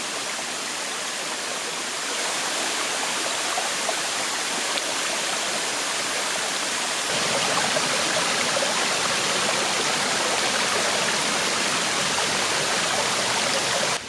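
Rushing water, a steady wash of noise that gets louder about two seconds in and again about seven seconds in, then cuts off.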